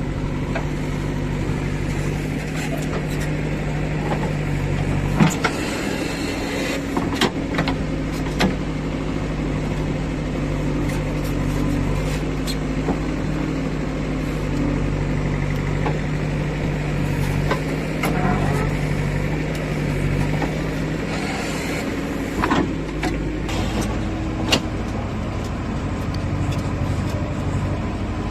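JCB 3DX backhoe loader's diesel engine running steadily, its pitch stepping up and down a few times, with a handful of sharp knocks and clanks.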